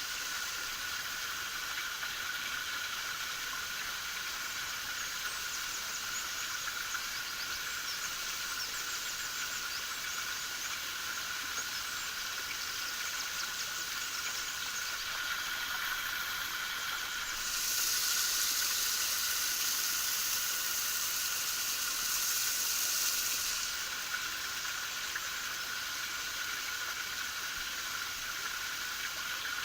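Steady rush and splash of a small waterfall, with a louder, higher hiss for about six seconds past the middle.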